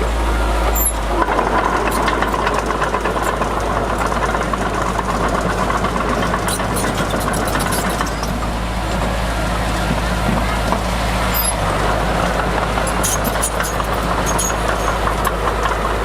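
Komatsu D31P bulldozer's diesel engine running steadily under load while it works dirt, with sharp clicks several times over it.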